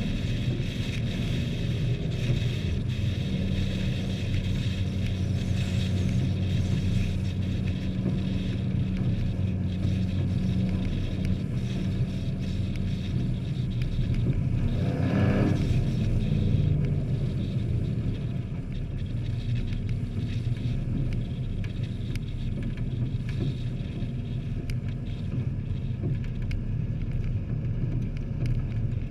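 Hobby-class race trucks running laps on an oval track, their engines droning steadily. One truck passes louder about halfway through.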